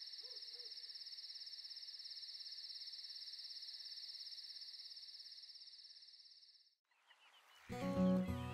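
Crickets chirping in a steady, fast pulsing trill that cuts off suddenly about seven seconds in. Music with sustained notes starts near the end.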